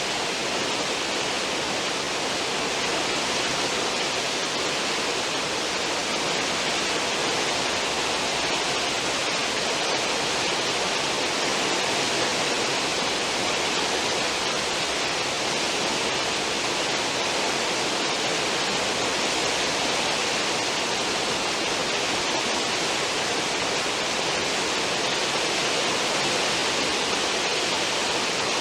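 Steady rushing hiss of a cruise ship's wake churning behind the stern, an unbroken wash of turbulent water and foam.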